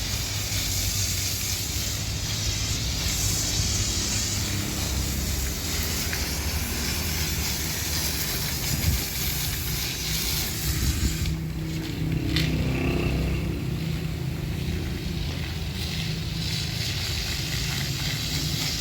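Pressure washer spraying water onto a car: a steady hiss over a low steady drone, the spray cutting out for about a second a little past halfway and then starting again.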